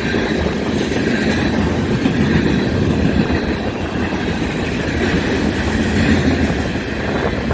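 Freight train cars rolling past, a steady rumble and wheel clatter on the rails.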